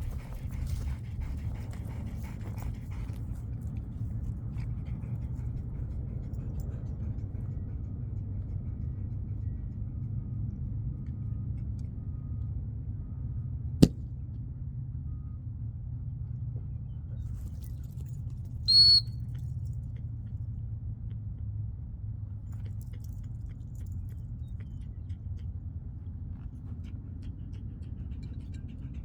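A single short blast on a dog-training whistle about two-thirds of the way through, over a steady low rumble. About 14 s in there is one sharp, very brief crack, the loudest moment.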